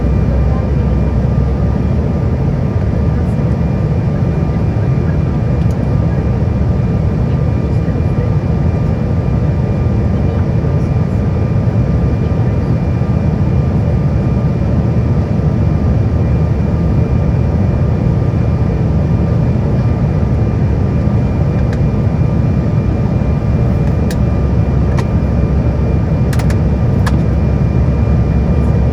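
Jet airliner cabin noise: a steady, loud low rumble with faint, even whining tones from the engines. A few faint clicks come near the end.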